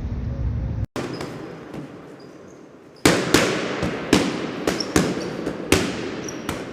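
Sound effects: a low rumble that cuts off abruptly about a second in, then a fading hiss, then a run of sharp cracks, each dying away, spaced a little over half a second apart.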